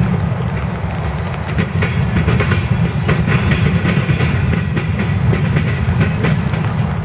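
Loaded covered hopper cars of a grain train rolling past, their steel wheels rumbling on the rails and clicking over rail joints.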